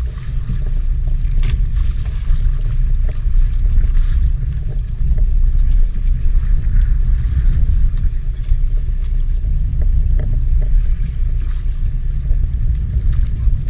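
Steady low rumble on a small fishing boat at sea, with a few faint scattered ticks.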